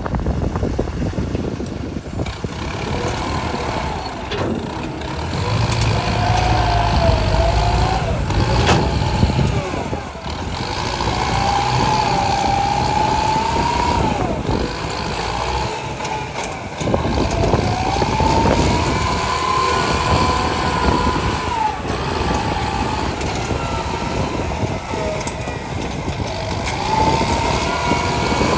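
Truck running under load while clearing a well, its engine noise carrying a whine that rises and falls in pitch several times.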